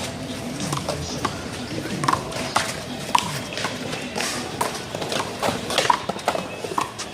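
One-wall handball rally: the rubber ball is slapped by hands and bounces off the wall and the concrete, a string of sharp smacks at an uneven pace.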